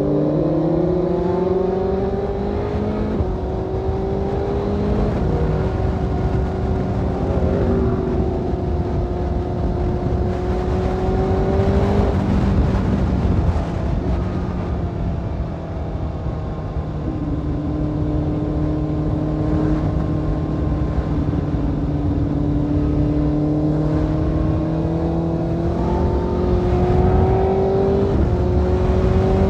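Motorcycle engine running on the move. Its pitch climbs slowly, then drops back a few times, as at gear changes, over steady wind noise.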